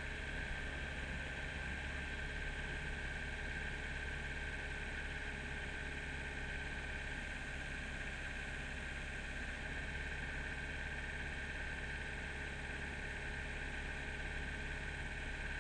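Kubota mini excavator's diesel engine running steadily with a constant hum and a steady high whine, with no change in speed.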